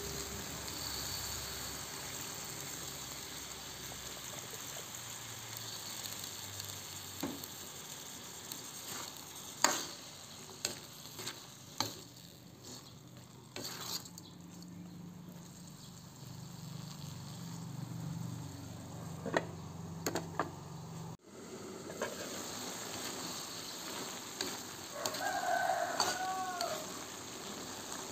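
Stir-fry of long beans, tempe and anchovies sizzling in a metal wok just after a little water is added, with a metal ladle scraping and knocking against the pan as it is stirred. A rooster crows briefly near the end.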